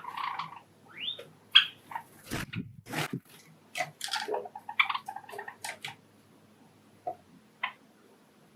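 Pet Java sparrows giving short chirps and calls, one rising, mixed with sharp clicks and taps and a few low thumps about two to three seconds in. The activity thins out after about six seconds, leaving two last short chirps.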